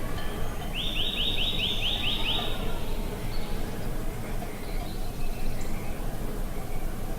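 Steady outdoor wind noise, with a bird singing a quick trill of about eight repeated notes about a second in and a few faint chirps later.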